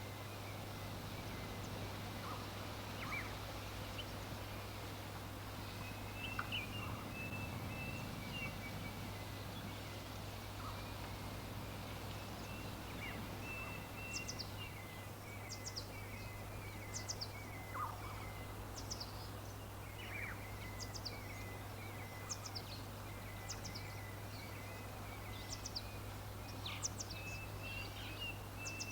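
Wild birds chirping and calling over an even background hiss and a steady low hum. Short, high, falling chirps repeat throughout, and rapid chattering runs a little lower in pitch come and go.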